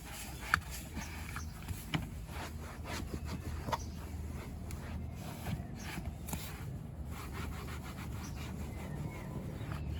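Rubbing and scrubbing on car seat upholstery and trim during interior cleaning, with scattered sharp clicks, over a steady low hum.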